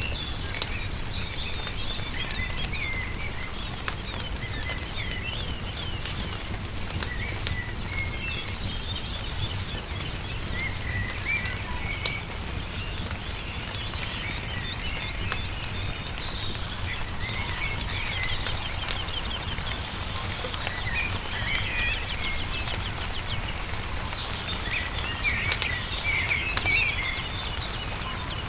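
Small songbirds chirping and warbling, with a fast trill about two-thirds of the way through. Underneath, a wood fire crackles with scattered sharp pops, the loudest about a second in, near the middle and near the end, over a steady low rumble.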